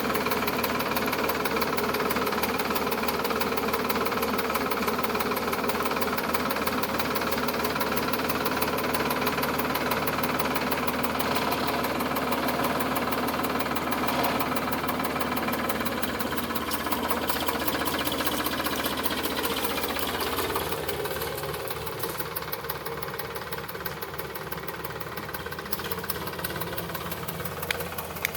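Sonalika DI 745 tractor's diesel engine running steadily with a fast, even knocking pulse. About twenty seconds in it gets quieter and lower.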